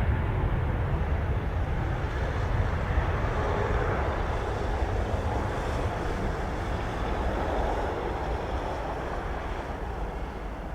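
Jet engine noise of a departing Boeing 737 MAX 8 with CFM LEAP-1B turbofans, a low rumble climbing away and fading steadily.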